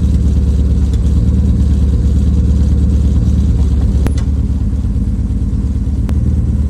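BMW E36 M3 straight-six idling steadily on a cold start through a full header-back exhaust with Rebello cams, the cams audible in the idle. There is a faint click about four seconds in.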